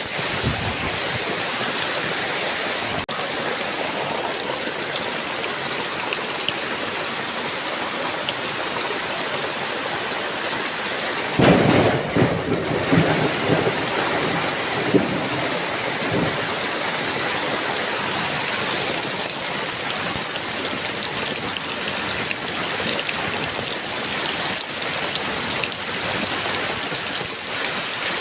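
Heavy rain falling steadily, with a thunderclap about eleven seconds in that rumbles on for a few seconds before fading back into the rain.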